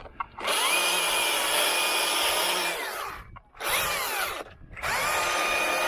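Chainsaw revving up to full throttle and held there in two long pulls of about three seconds each, with a short rev in between, the engine note rising at each start and falling back as the throttle is released.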